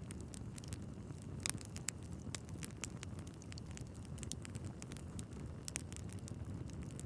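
Wood fire burning in a fireplace: a steady low rush of flames with irregular sharp crackles and pops from the logs, one louder pop about a second and a half in and another near the end.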